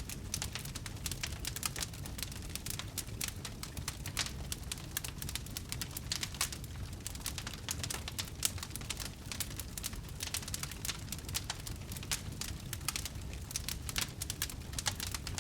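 Wood fire crackling: a dense, irregular stream of small snaps and pops over a low steady rumble.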